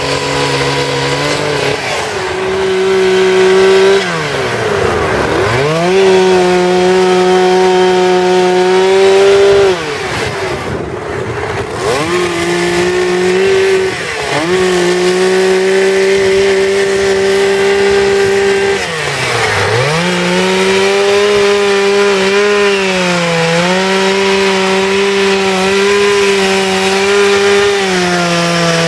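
Two-stroke chainsaw running at high revs while carving wood. The throttle is let off and opened again about four or five times, the pitch dropping and climbing back each time.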